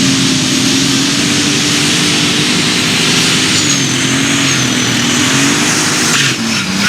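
Turbocharged super stock pulling tractor's engine running hard at high revs under load during a sled pull. The pitch holds fairly steady with slight wavers and sags a little near the end, and a thin high whistle rises and fades midway.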